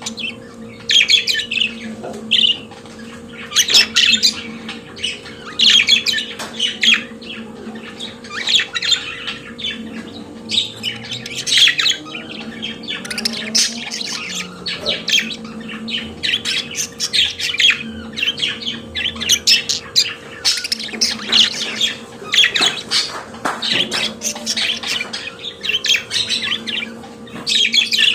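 Budgerigars singing: a constant run of quick chirps, warbles and squawks.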